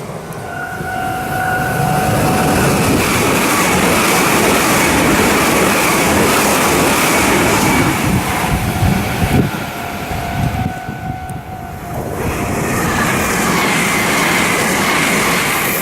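Meitetsu electric multiple-unit train passing at speed: loud, steady running noise of wheels on rails, with a faint steady motor whine. The noise dips briefly about eleven seconds in, then builds again.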